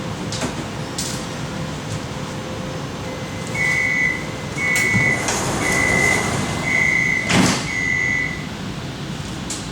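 Metro car door-closing warning: five short high beeps about a second apart while the sliding doors run shut, ending in a thud a little past seven seconds in, over the steady hum of the car.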